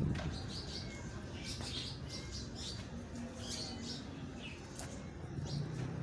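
Small birds chirping in short, high calls, repeated every half-second or so, over a low steady hum.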